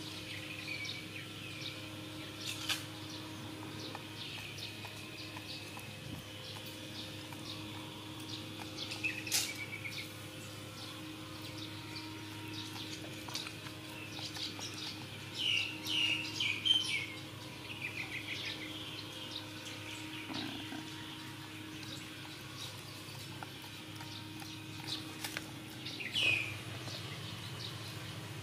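Small birds chirping on and off, with a denser run of quick chirps a little past halfway, over a steady low hum.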